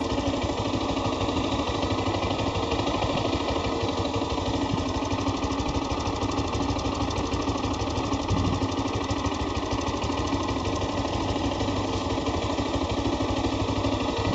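Lifan KPT200 motorcycle's single-cylinder engine idling steadily.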